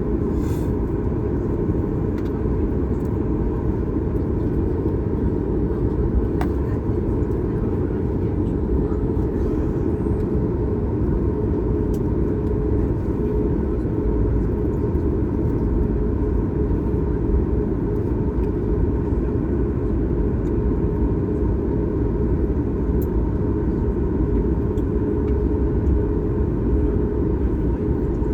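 Steady cabin noise of a Boeing 737 MAX 8 in flight: a constant deep rush of airflow and engine rumble, with a faint steady hum above it.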